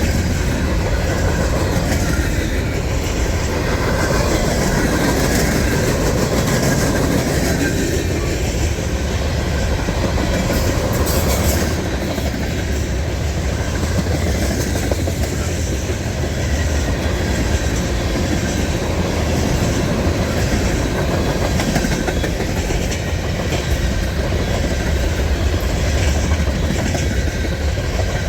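Freight train cars rolling past: a steady rumble of steel wheels on rail with the clickety-clack of wheels over rail joints.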